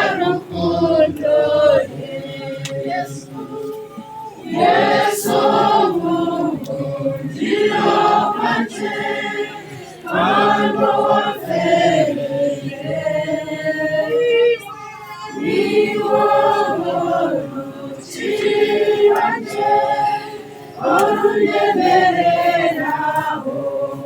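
A group of mourners singing unaccompanied at a burial, a funeral hymn sung in phrases of a few seconds with short breaks between them.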